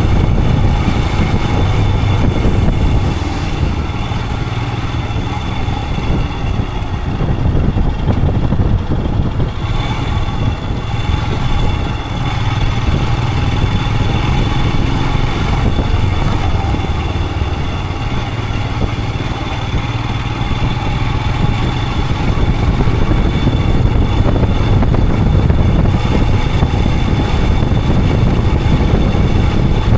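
Royal Enfield Himalayan 411's single-cylinder engine running steadily while riding, under a constant haze of road noise. The level sags slightly twice.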